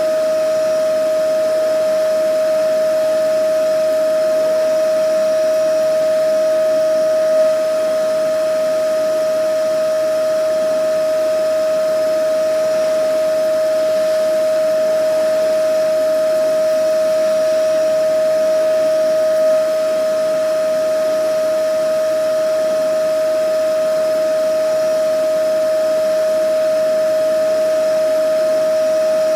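Vacuum cleaner running steadily: a constant motor whine held on one pitch over an even rush of air, unchanging throughout.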